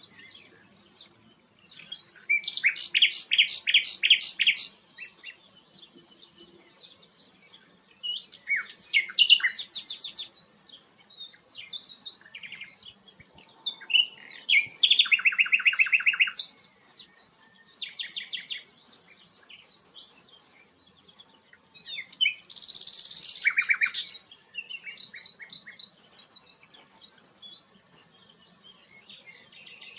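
A sikatan londo flycatcher singing a varied song in loud phrases every few seconds: fast trills, short chirps and a high held whistle near the end.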